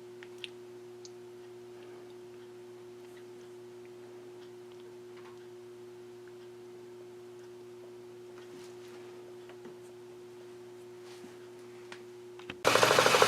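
A faint steady hum with a few light clicks, then about twelve and a half seconds in a machine tool starts abruptly and runs loudly with a fast, even rattle.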